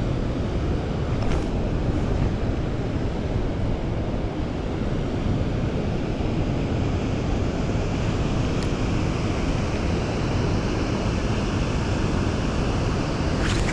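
Steady rush of fast-moving water, mixed with wind buffeting the microphone. A few faint clicks stand out over it.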